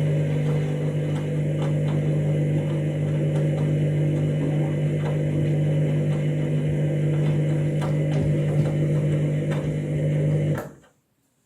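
Washing machine running with a steady low hum and faint scattered clicks, cutting off suddenly near the end.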